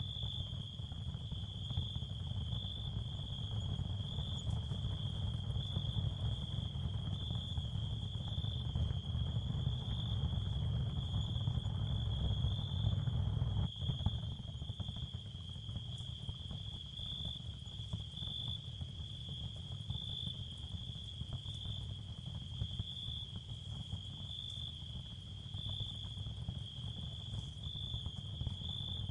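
Ambient sleep sound field: a steady, high cricket-like trill that pulses gently, over a low rumbling noise bed, with one brief dip about halfway through.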